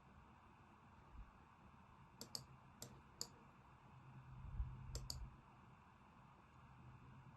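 Faint computer mouse clicks, about six in all, several in quick pairs, over a low room hum.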